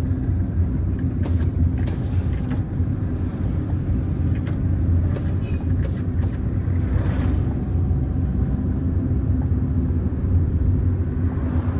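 Car driving along a road: a steady low rumble of engine and tyre noise, with a few brief knocks and rattles scattered through it.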